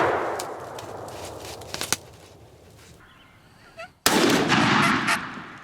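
Two shotgun blasts outdoors. The first rings out and dies away over the first couple of seconds, and a second loud blast comes about four seconds in.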